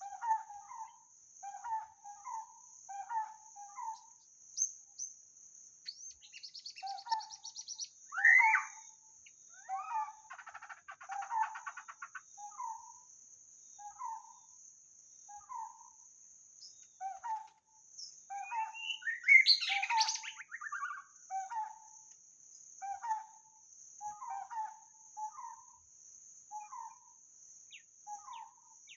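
White-rumped shama calling: short notes repeated about once a second, broken by a few longer, louder song phrases, the loudest just past two-thirds of the way through. A steady high insect drone runs behind it and drops out briefly.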